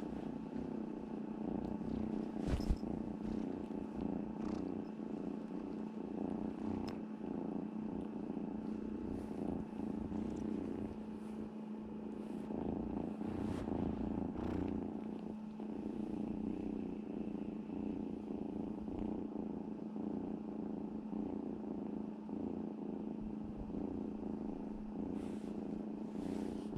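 Scottish Fold kitten purring steadily throughout, a continuous low rumble under a steady hum. A single sharp knock sounds about three seconds in.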